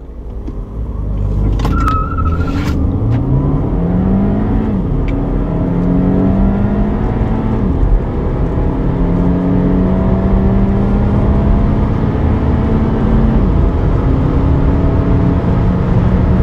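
A 2.0-litre four-cylinder Audi engine under hard acceleration from low speed, heard from inside the cabin. Its note rises in pitch through each gear and drops back at the upshifts, several times over.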